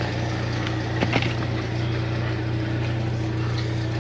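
Engine idling steadily, with two sharp metallic knocks a little after a second in.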